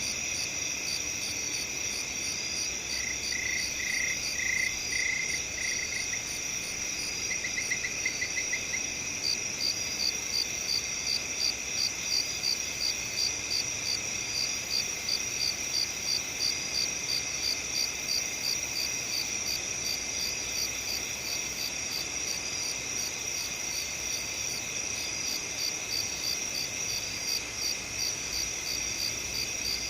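Night field ambience of crickets: a steady high trill, joined from about a third of the way in by a loud chirp repeating at an even beat. Early on a short run of lower chirps and a brief quick trill sound over it.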